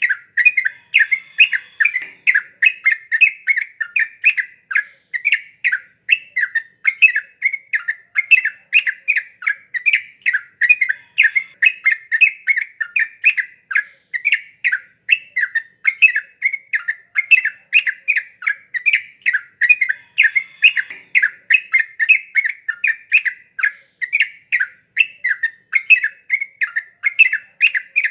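Yellow-vented bulbul (trucukan) singing non-stop: an unbroken run of short, fast notes, about four a second.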